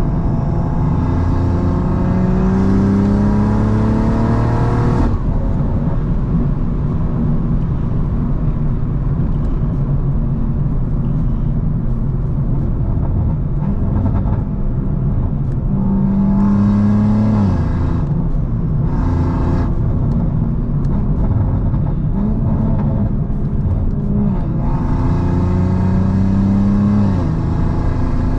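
Tuned 700 whp BMW M340i's turbocharged B58 inline-six pulling hard, its note rising, then cutting off sharply about five seconds in. It runs more steadily for a while, then makes several shorter rising pulls, each with added hiss, through the second half.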